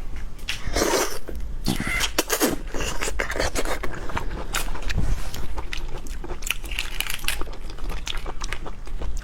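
Close-miked eating of shell-on seafood: a steady run of crunchy bites, chewing and crackling, scraping shell sounds, with many sharp clicks.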